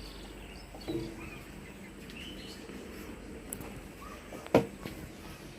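Outdoor ambience with faint, scattered bird chirps over a steady low background noise, a dull thump about a second in and a sharp knock near the end.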